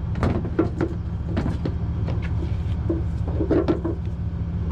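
Truck engine idling steadily, with a string of short knocks and clunks over it.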